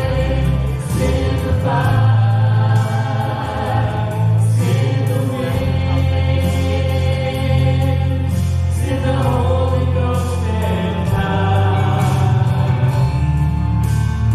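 Gospel group singing with a band, held sung notes over a steady bass.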